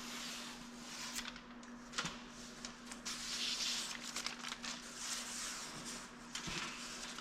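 Rustling and scraping handling noises with a few light knocks, over a steady low hum.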